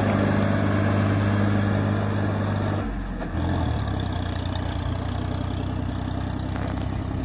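Tractor diesel engine running steadily. About three seconds in its note shifts and the level dips briefly, then it settles to a steady lower hum.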